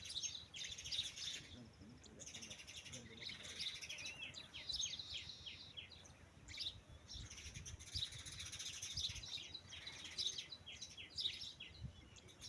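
Birds chirping, a dense run of short, quick high calls that goes on throughout.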